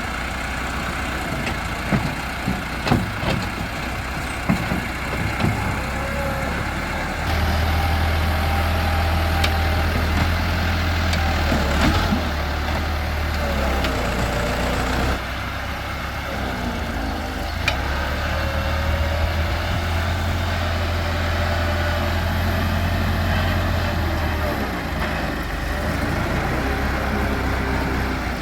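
JCB backhoe loader's diesel engine working, pulling harder twice for several seconds at a time, with a wavering whine over the engine. Sharp metallic clanks come in the first few seconds.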